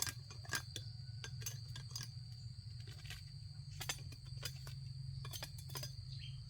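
Insects in a steady high-pitched drone, with scattered sharp clicks and knocks, about eight of them, at irregular intervals.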